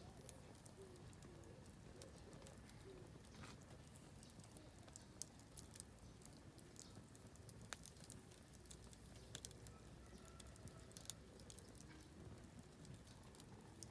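Oak firewood burning in a campfire, crackling quietly with sharp, irregular pops. Faint bird calls now and then in the background.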